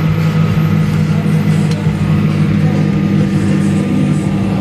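Engine running loudly and steadily at a constant speed, with no revving.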